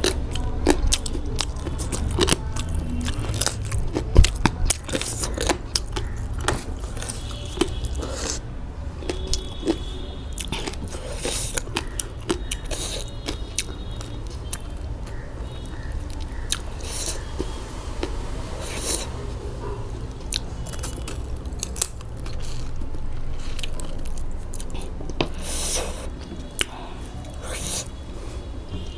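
Close-up eating sounds: chewing and biting food, with scattered crunches and sharp clicks, over a steady low hum.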